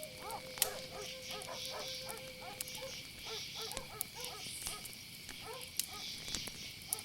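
Night ambience of crickets chirring steadily, with dogs barking over and over in quick succession. A long steady whine holds for about the first three seconds, and a few sharp clicks of a crackling fire come through.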